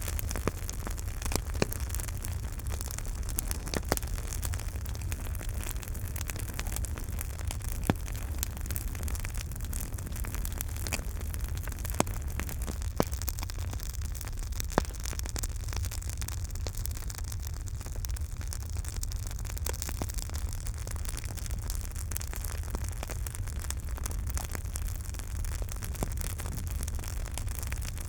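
Campfire burning with a steady low roar and hiss, and frequent crackles. Sharp pops stand out every few seconds.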